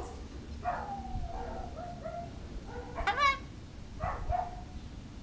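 Goffin's cockatoo calling three times: a falling then held call about a second in, a louder rising squawk about three seconds in, and a short call about four seconds in.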